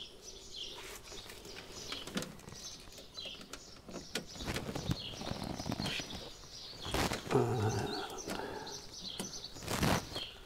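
Small birds chirping and tweeting in the background, with a few sharp knocks, the loudest about two-thirds of the way through and near the end.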